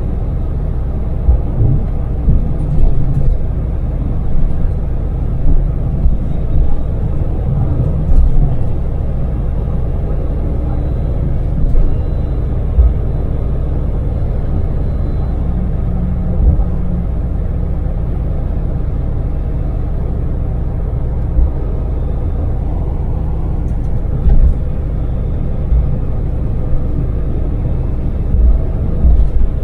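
Daewoo Damas LPG minivan's small three-cylinder engine running steadily at expressway speed, a continuous low rumble with road noise. Short louder thumps come at irregular moments, in clusters in the first few seconds and again near the end.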